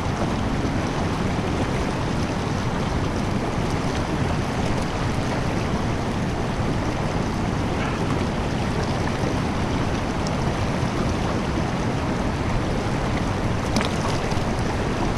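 Fast creek current rushing steadily, a constant full hiss of running water.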